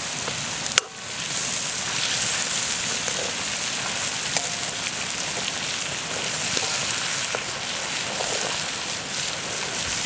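Chicken pieces sizzling in hot oil in a wok over a wood fire, a steady dense hiss with small scattered ticks as a metal ladle stirs them. One sharp click comes just under a second in.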